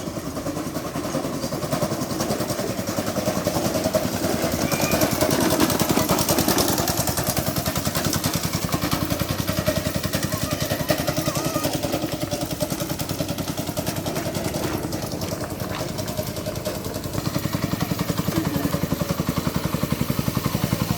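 Motorcycle engine in a homemade mini buggy running, its exhaust note rising and falling with the throttle. It is louder about five seconds in, eases off, then picks up again near the end.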